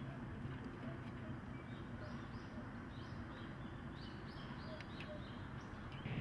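Small birds chirping, a run of short high chirps starting about two seconds in, over a steady low background hum.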